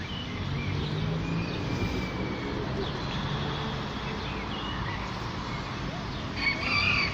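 Small birds chirping faintly over a steady background hum, then near the end a loud wailing, meow-like call from a peacock.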